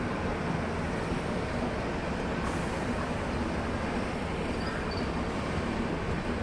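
Steady rumble of a passing train running on the track.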